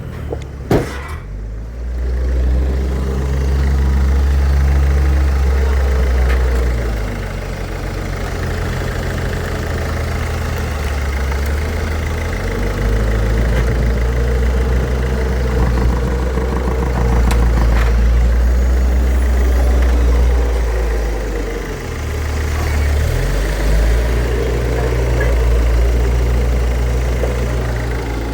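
Peugeot Partner 1.6 HDi (9HF) four-cylinder common-rail turbodiesel idling on an engine test: a steady low drone that shifts in level a few times. A sharp click about a second in.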